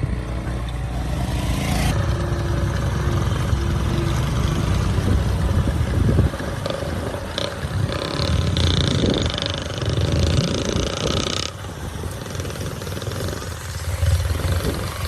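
Tractor's diesel engine running loud and steady. The sound changes abruptly twice, about two seconds in and about three-quarters of the way through.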